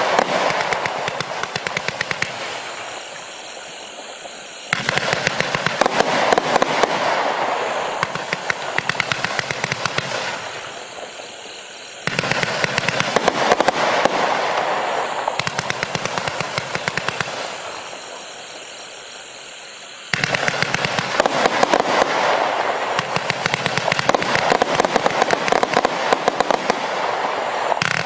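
A 128-shot consumer fireworks cake firing rapid volleys of shots and bursting stars. The popping is dense and fast, tails off a little, then restarts sharply about every eight seconds.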